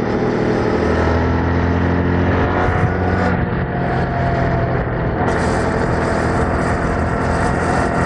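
Yamaha MT-07's 689 cc parallel-twin engine running steadily at road speed through the stock exhaust, with wind noise over the bike. The hiss rises about five seconds in.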